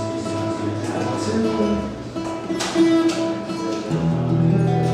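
Acoustic guitar played live, notes ringing on, with one sharper stroke about two and a half seconds in.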